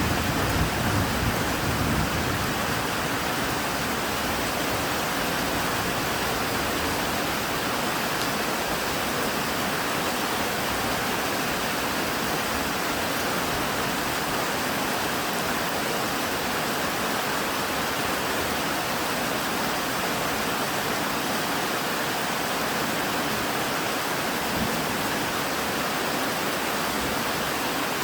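Steady heavy rain, an even hiss, with a low rumble of thunder dying away in the first two seconds.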